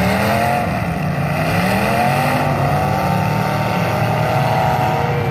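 Several demolition derby cars' engines revving at once, their overlapping pitches rising and falling as they accelerate and ease off.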